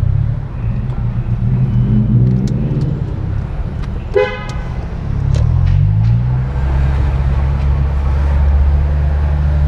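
2008 Acura TSX's 2.4-litre four-cylinder engine and aftermarket exhaust with a Dynamax resonator, heard from inside the cabin: running low and deep in slow traffic, rising in pitch a little past halfway as the car pulls away, then settling into a steady drone. A short car horn toot sounds about four seconds in.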